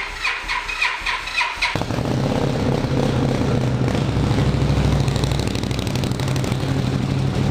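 Indian Scout V-twin cold-started at about 2 °C engine temperature: the starter cranks with a rhythmic whir for nearly two seconds, then the engine catches and settles into a steady, loud fast idle through a new stainless-steel exhaust tip.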